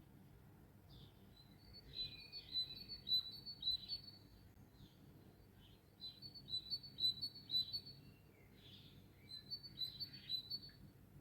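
A small songbird singing three short bursts of quick, high notes, with other birds chirping faintly in between.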